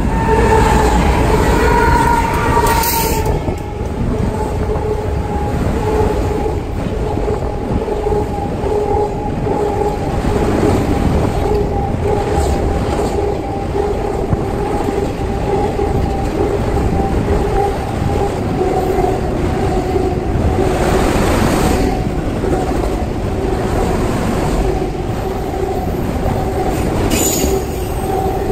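A train running past on the rails: a steady rumble of wheels with a steady whine held throughout, and a few short noisy swells.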